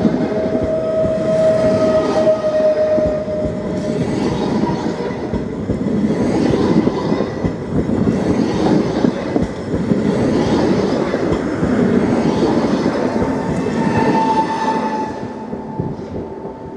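Pesa Dart ED161 electric multiple unit running past as it pulls out of the station: a steady rumble with the wheels clicking over the rail joints, and a thin whine that comes and goes. The sound fades over the last couple of seconds as the end of the train moves away.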